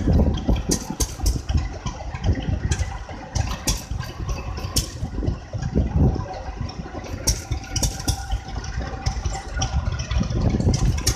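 Engine running, with sharp clicks and rattles over it.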